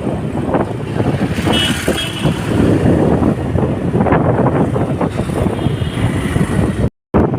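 City road traffic noise: vehicle engines and tyres with a heavy, uneven low rumble.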